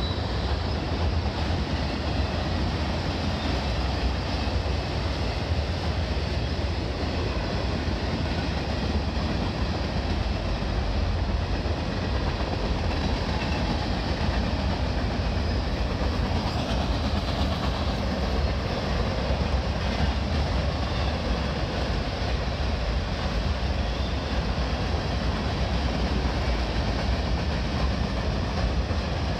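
Union Pacific mixed freight train's cars (covered hoppers, tank cars and flatcars) rolling past at high speed, a steady, unbroken noise of steel wheels on the rails, heaviest at the low end.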